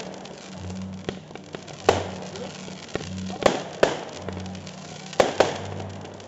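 Fireworks bursting in the air: about five sharp bangs, two of them in quick pairs, with crackling between. Music with a steady low bass plays underneath.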